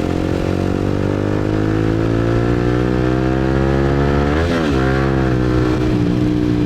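Motorbike engine heard while riding, its pitch climbing steadily for about four seconds as it accelerates, with a quick dip and rise about four and a half seconds in, then running at a nearly steady speed.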